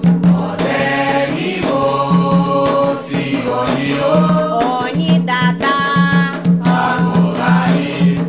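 Candomblé chant for Xangô sung by voices in Yoruba, with percussion beating under the singing.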